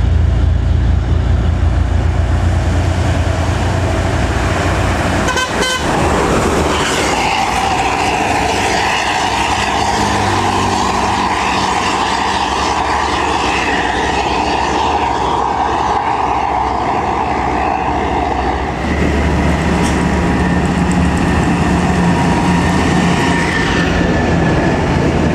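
Heavy road vehicles, buses and trucks, passing at speed with diesel engines running and tyre noise on the road. A short horn toot comes about five or six seconds in.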